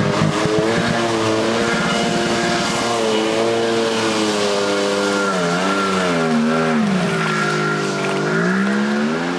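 1997 Arctic Cat Tigershark Daytona 1000 jet ski's two-stroke engine running at speed under a heavier rider, its pitch holding steady, sagging twice about halfway through and climbing back near the end. The owner is trying to find an unidentified performance problem.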